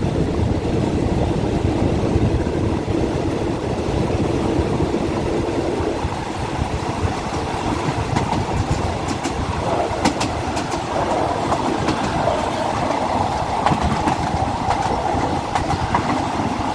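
Thai ordinary passenger train running, heard from an open carriage window: steady wheel-and-rail rumble with a run of clicks as the wheels cross rail joints about nine to eleven seconds in, after which a steadier higher hum joins.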